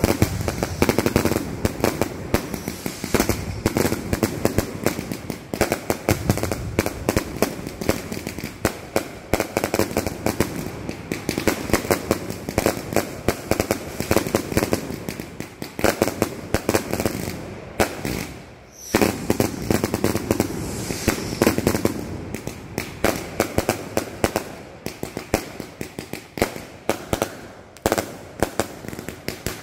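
Aerial fireworks bursting in rapid succession, a dense run of sharp bangs many times a second, with a brief lull about two-thirds of the way through.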